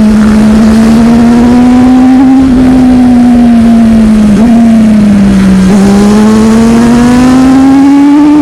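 Sport motorcycle engine running at high, steady revs on the move, its pitch slowly rising and easing. It dips briefly twice, about four and a half and five and a half seconds in, then climbs steadily again.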